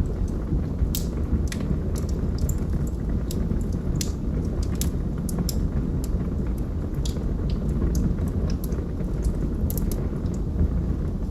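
Wood fire burning in a fireplace: a steady low rumble with irregular sharp crackles and pops, several a second at times.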